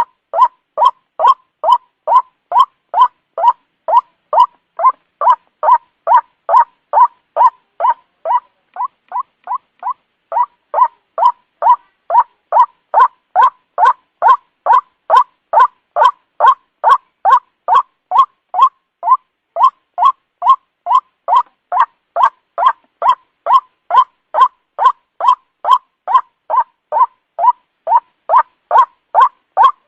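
White-breasted waterhen (ruak-ruak) calling in an unbroken, evenly paced series of harsh notes, about two a second, as played for a bird-catching lure. The calls drop in loudness for a couple of seconds about a third of the way in, then pick up again.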